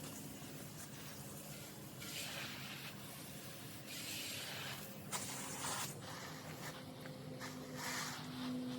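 Garden hose spraying water onto plants, coming and going in hissing spells of about a second each.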